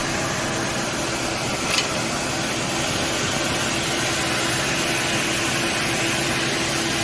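Car engine idling steadily, with one short click about two seconds in.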